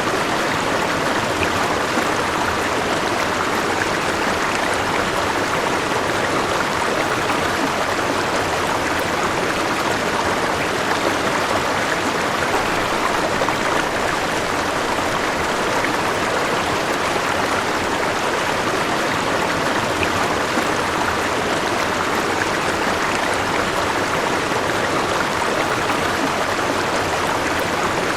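River water flowing over rocks: a steady, even rushing with fine gurgling detail.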